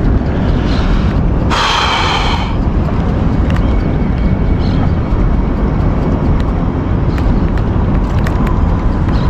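Steady wind noise on the microphone over open water. About a second and a half in, a brief high-pitched sound with several stacked tones lasts about a second.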